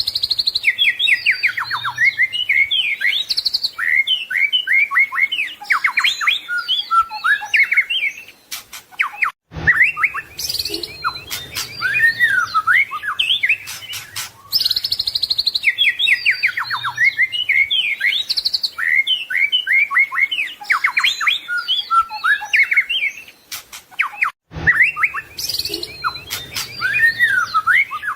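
White-rumped shama singing a fast, varied song of whistles, trills and sweeping notes packed with mimicked phrases (full isian). The song breaks off briefly twice and the same run of phrases comes round again, as in a looped recording.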